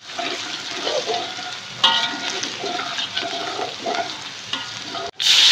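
Garlic, shallots and ginger sizzling in hot oil in an aluminium wok while a metal spatula stirs and scrapes the pan. Near the end the sizzle breaks off and a much louder rushing hiss begins as water is poured into the hot wok.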